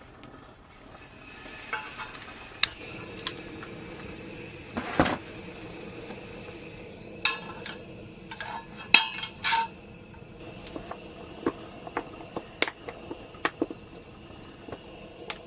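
Irregular clinks and knocks of dishes and utensils being handled, about a dozen sharp strikes, some ringing briefly, over a steady faint high drone.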